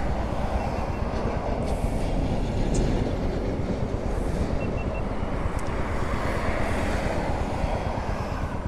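TVS Ronin's single-cylinder motorcycle engine running at low speed, a steady rapid thumping.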